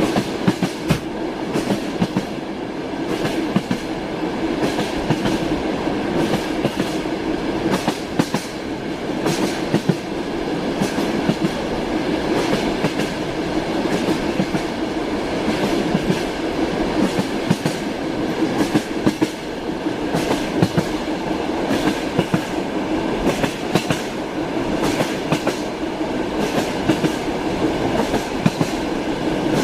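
Train wheels clattering over rail joints, a steady rumble of a moving railway carriage broken by many sharp knocks at uneven spacing.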